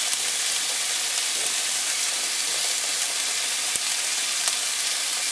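Chicken breasts sizzling steadily in hot oil in a frying pan as they brown.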